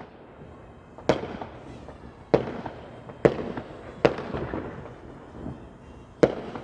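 Fireworks bursting: five sharp bangs at uneven intervals, each with a short rumbling tail.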